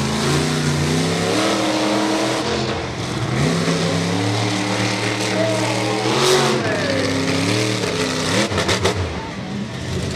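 Car engines running and revving, their pitch rising and falling repeatedly, with more than one engine heard at once at times.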